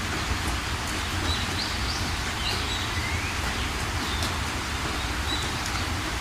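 Steady rain hiss with birds chirping now and then: several short high chirps and one falling whistle about halfway through.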